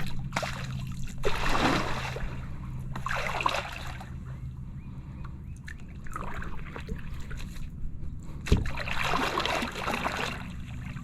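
Kayak paddle strokes: the blades dip and swish through the water with trickling drips off the paddle, a stroke every second or two with a short pause in the middle.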